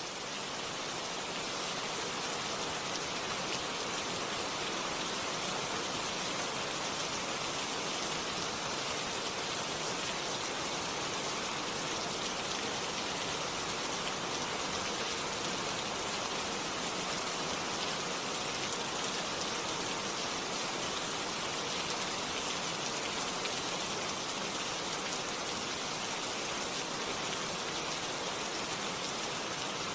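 Steady rain falling, an even hiss of many drops with no thunder, fading in over the first second.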